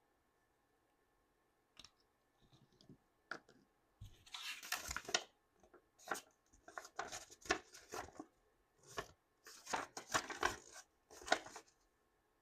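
Plastic toy packaging being torn open and crinkled by hand. A single click comes about two seconds in, then soft rustling, then a run of short tearing and crinkling bursts.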